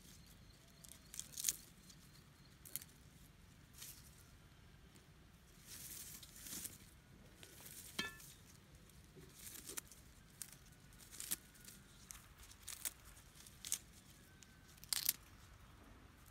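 Irregular rustling, tearing and crackling, a sharp crackle every second or so with a few longer rustles, like plant material being handled.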